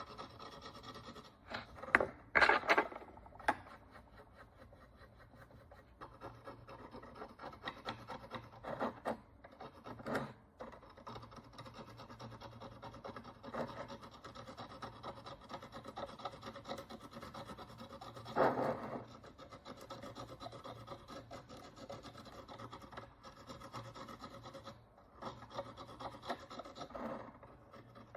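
A hand tool scraping the dirt and oxidation crust off an ancient Roman bronze coin: a fine, continuous scratching, with louder scrapes about two seconds in and again a little past halfway.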